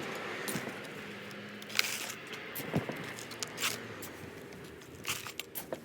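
Potting soil mixed with perlite being put into tall plastic tree pots: a crumbly scraping and rustling, with scattered sharp clicks.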